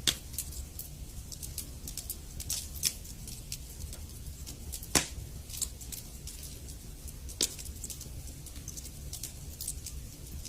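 Wood fire in a fireplace crackling: irregular sharp snaps and pops over a low steady rumble of the flames, with a louder pop about five seconds in and another near 7.5 seconds.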